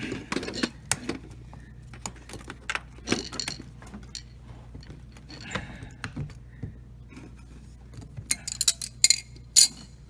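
Small metal and plastic parts of a dishwasher spray arm motor assembly clicking and clinking as they are handled and fitted by hand, with a cluster of sharper clinks near the end. A faint steady low hum underneath.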